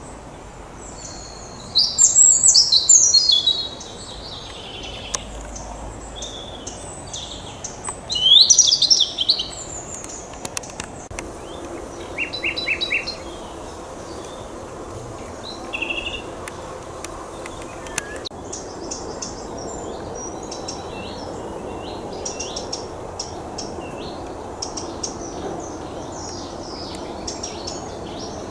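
Wild songbirds singing: two loud phrases of fast, varied song, one about two seconds in and one about eight seconds in, then a quick run of repeated notes, then quieter songs from several birds, over a steady low background noise.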